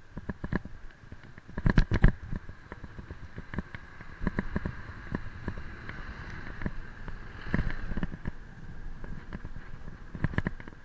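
A bicycle being ridden over rough ground, with irregular rattles and knocks from the bike and the mounted camera, loudest about two seconds in, over wind rumble on the microphone.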